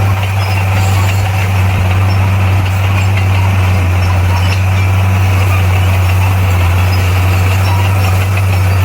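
Komatsu bulldozer's diesel engine running steadily with a deep, even drone.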